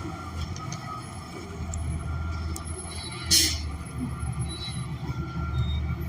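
Transit bus with a Cummins Westport ISL G natural-gas engine running, heard from inside the cabin as a steady low hum. There is a short burst of hiss about three seconds in.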